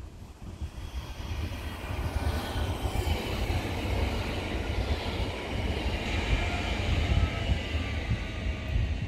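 Electric multiple unit passing at speed on an electrified main line: rail and wheel noise swelling as it nears and running loud as it goes by, with a faint whine that drops in pitch. Wind rumbles on the microphone throughout.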